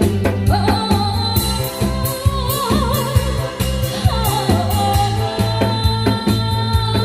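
A voice singing with wide vibrato over a loud backing track, with a steady drum and bass beat underneath.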